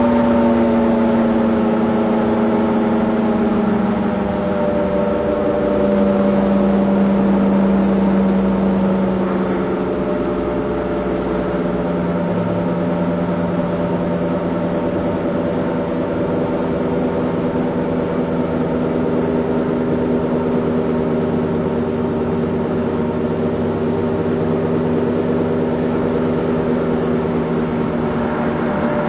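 Car engine running with a steady droning hum; its pitch sags a little and shifts in steps over the first ten seconds or so, then holds steady.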